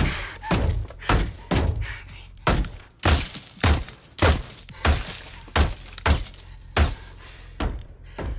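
Gunfire hitting the bulletproof glass of James Bond's Aston Martin DB5: a steady run of sharp impacts, a little under two a second, each a thud with a spray of cracking glass.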